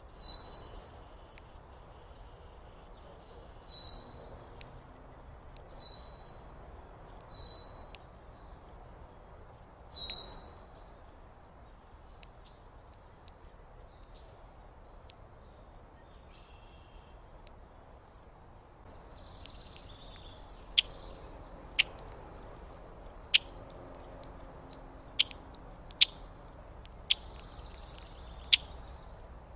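Wild birds calling. First comes a series of five whistled notes spread over about ten seconds, each sliding quickly down and then holding a steady tone. About two-thirds of the way through, sharp, loud chip notes start at irregular intervals over a softer high twittering.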